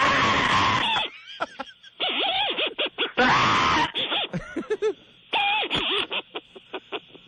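A person's voice shrieking and laughing in loud bursts, sounding cut off at the top like a telephone line.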